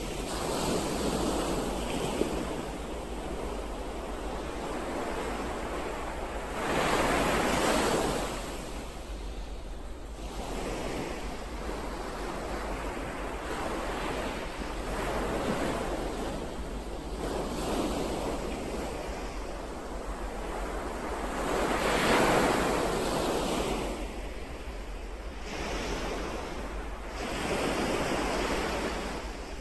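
Ocean waves breaking and washing ashore in slow surges, swelling and falling every few seconds, with two stronger breakers about seven and twenty-two seconds in. Some wind rushes over the microphone.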